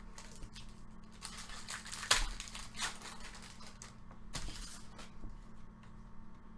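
Baseball trading cards and their pack wrapper being handled: rustling and crinkling with a series of short card flicks and slaps, the sharpest about two seconds in.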